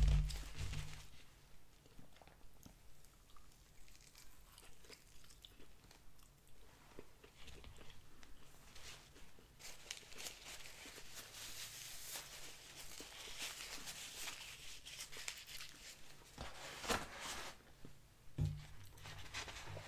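Close-miked chewing of a crispy fried chicken sandwich, a Popeyes spicy chicken sandwich, with small irregular crunches. There is a thump right at the start as the sandwich is set down on a paper plate, and a paper napkin rustles partway through.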